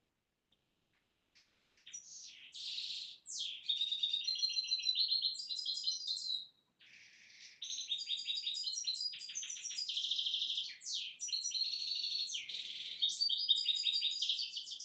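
Songbird singing long, rapid twittering and trilling phrases, starting about two seconds in, with a brief pause about halfway.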